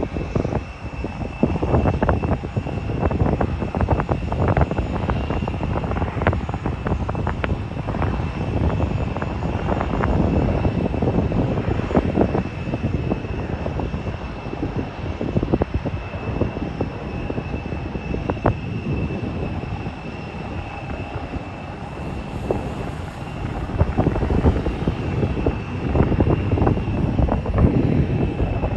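Jet airliner engines running, with a steady high whine over a continuous rumble. Gusty wind buffets the microphone throughout.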